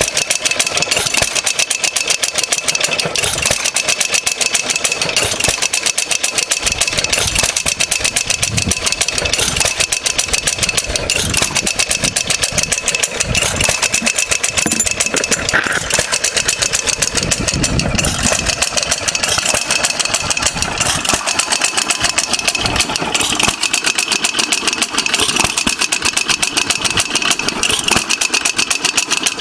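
Antique Ideal hit-and-miss engine running, a rapid, even clatter of firing strokes, which the owner finds not too bad but in need of adjustment.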